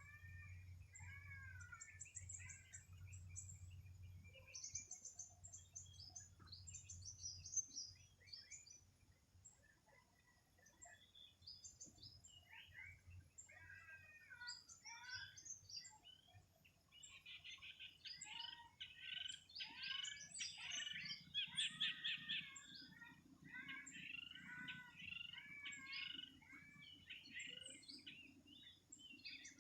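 Several birds chirping and singing together in a morning chorus, the calls growing denser and busier in the second half, over a faint low hum.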